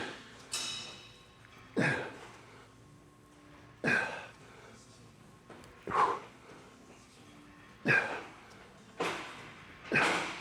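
A man exhaling hard through each rep of dumbbell lateral raises: a series of sharp, short breaths, about one every one to two seconds, each fading quickly.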